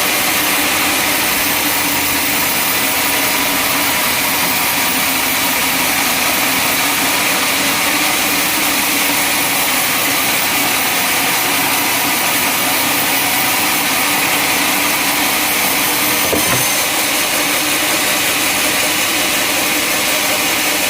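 Sawmill machinery running steadily at a constant loud level, with a single brief knock about sixteen seconds in.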